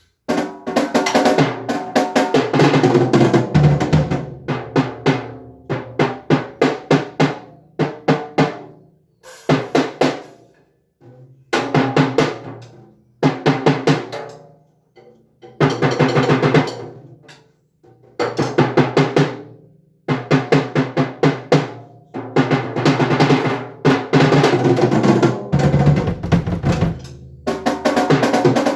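Drum kit played in short bursts of rapid beats and fills, each phrase stopping abruptly before the next starts.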